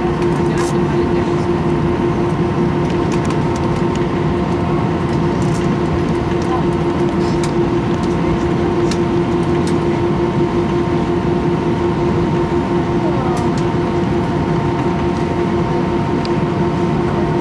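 Steady cabin noise inside an Airbus A319 airliner as it taxis: the engines idling and the air-conditioning running, with a constant humming drone.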